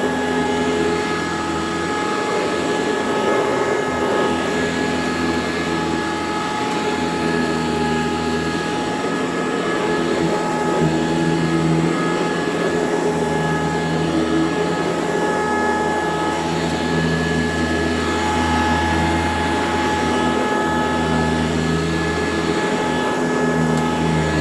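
Eureka C2094 Type G commercial vacuum cleaner running steadily, its motor giving a continuous whine with several held tones over a low hum that wavers a little.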